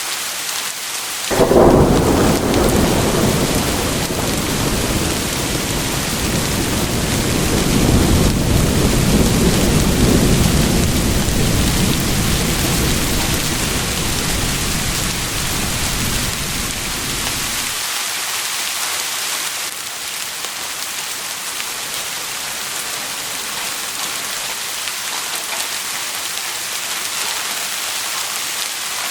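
Steady rain with a thunderclap about a second and a half in. The deep rumble rolls on, swelling again after several seconds, then cuts off suddenly, and the rain continues alone.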